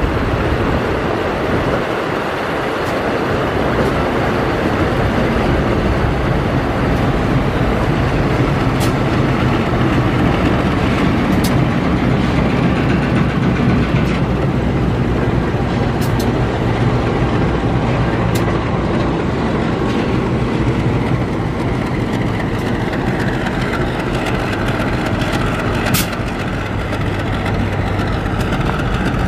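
A KAI diesel-electric locomotive and its train of coaches passing close by: steady engine hum and wheel rumble, with the engine loudest around the middle as the locomotive goes past. A few sharp high ticks come from the wheels now and then.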